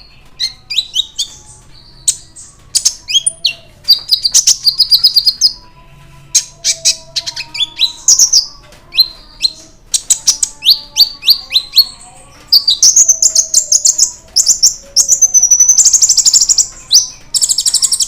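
Konin (kolibri ninja) sunbird singing excitedly: rapid high, thin chirps and quick down-slurred notes strung into fast trilled phrases, with short pauses between bursts.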